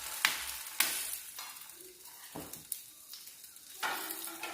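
Butter sizzling on a hot tawa as a bread sandwich fries in it: a steady crackling hiss, with a few sharp clicks.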